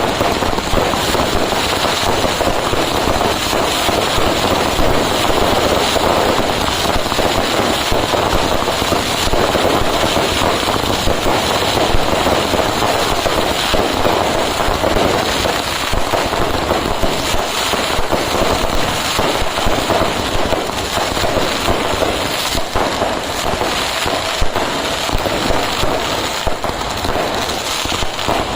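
Fireworks going off in a dense, continuous barrage: rapid bangs and crackling that never let up.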